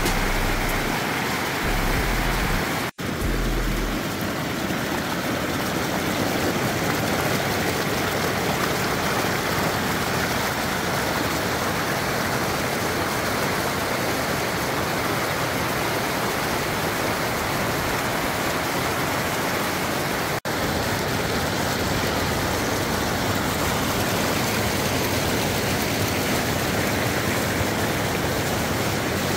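Steady rushing noise of fast-flowing creek water. It cuts out briefly twice, about three seconds in and about two-thirds of the way through.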